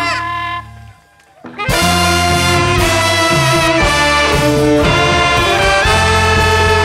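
Large jazz band with a horn section of saxophones and trumpet playing live over bass and drums. The band cuts out for about a second near the start, then comes back in together on held horn notes.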